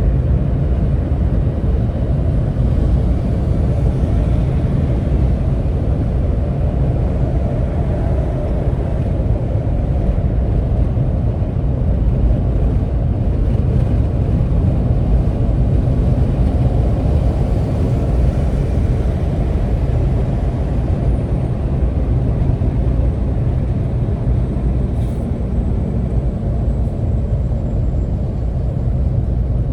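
Steady low rumble of vehicle engine and road noise during slow stop-and-go driving in traffic.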